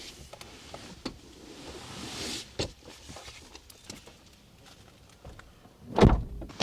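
Rustling and scattered light knocks of things being handled, with a rustling swell about two seconds in, then one heavy thump near the end.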